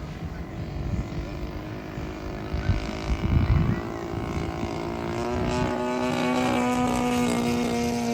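Model B-17 bomber's engines running after an emergency landing, the plane down on power. Low rumbling early on gives way, about five seconds in, to a steady engine hum that grows louder.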